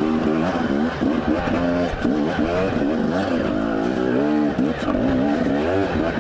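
Husqvarna two-stroke dirt bike engine, the throttle blipped on and off over and over, so its pitch rises and falls every half second or so.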